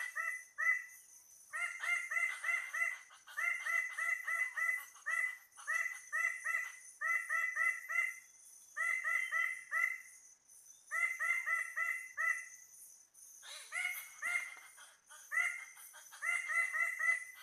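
Red birds-of-paradise calling: runs of loud, rapid, harsh notes, about five or six a second, in bursts of a second or so that repeat again and again. A steady high-pitched buzz runs underneath.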